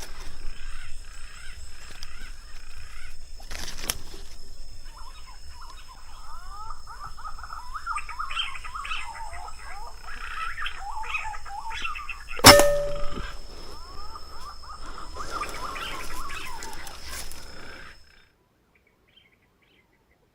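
Small birds chirping and calling over and over, with one sharp gunshot about twelve seconds in, the loudest sound. The sound cuts off about two seconds before the end.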